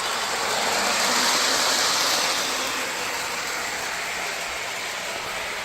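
Lionel 2032 Erie FA-1 O-gauge model diesel locomotive running on its test track: a steady whir of the motor and wheels on the metal rails, growing louder about a second in as it comes nearer and then easing off. It runs smoothly now that its wiring has been repaired.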